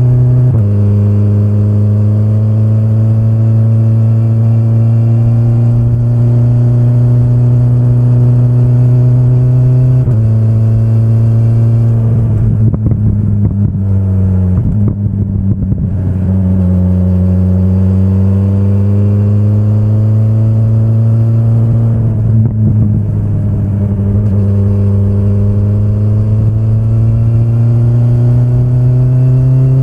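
BMW S1000RR's inline-four engine under way, rising steadily in pitch as it accelerates, with sudden drops in pitch at upshifts about half a second in and about ten seconds in. In the middle the throttle closes and the note turns ragged and crackling on the overrun, then it pulls and climbs again, with another brief crackle a little past two-thirds of the way through.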